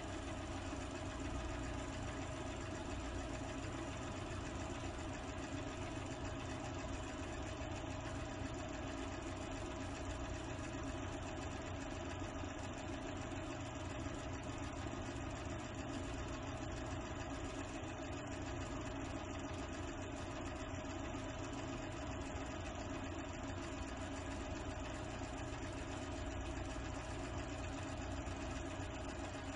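A steady, unchanging machine-like hum with a constant tone, running evenly with no distinct events.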